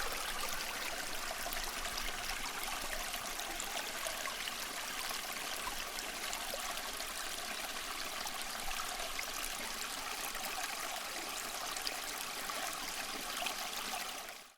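Small tabletop water fountain running: water trickling and splashing steadily.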